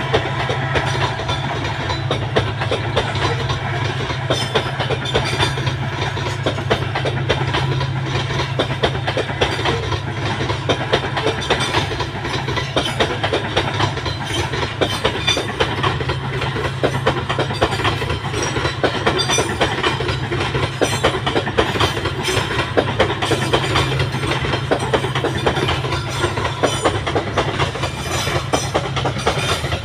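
Babaranjang coal train's wagons rolling past: a steady low rumble with continuous clattering of wheels over the rail joints.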